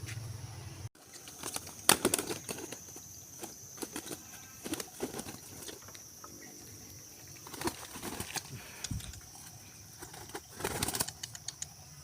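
Pigeons' wings flapping in short sudden bursts, loudest about two seconds in, with a longer run of flaps near the end.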